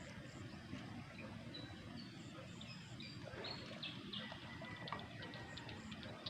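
Faint outdoor ambience: short high bird chirps and calls, one held as a thin whistle for about two seconds near the end, over a low steady rumble.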